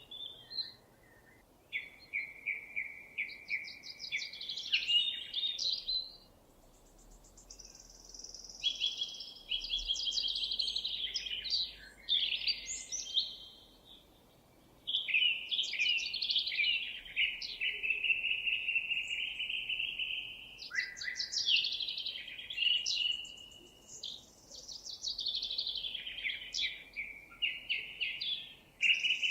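Songbirds singing: a string of high, varied song phrases a few seconds long, some with fast trills, broken by short pauses.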